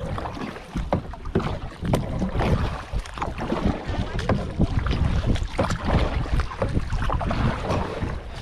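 Kayak paddle blades dipping and splashing in the water in irregular strokes, with wind rumbling on the microphone.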